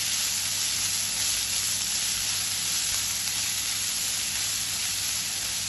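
Chopped small onions and green chillies sizzling steadily in hot oil in a pan over a low flame.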